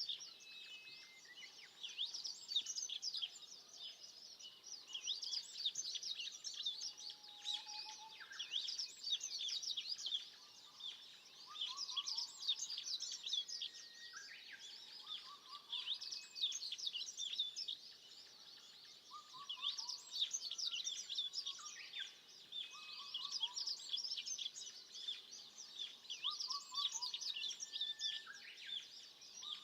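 Chorus of wild forest birds: dense high chirping and twittering that swells and fades in waves, with a lower bird repeating short runs of clear whistled notes every few seconds.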